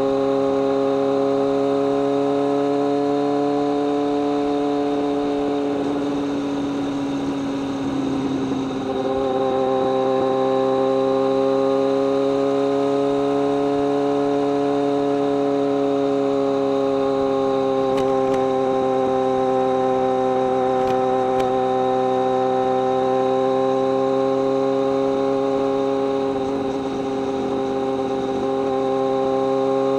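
BMW K1200R Sport's inline-four engine and exhaust pulling at a steady cruise, an even high drone. About seven seconds in the note wavers and drops briefly before settling back, and it eases slightly again near the end.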